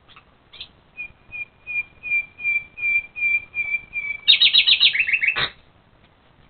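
A songbird singing one phrase: a run of whistled notes repeated about three times a second and growing louder, then a fast, loud trill that drops in pitch and ends on a sharp final note.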